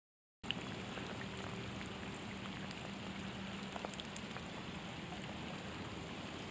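Steady rain falling, with scattered single drops ticking close by; it cuts in abruptly about half a second in.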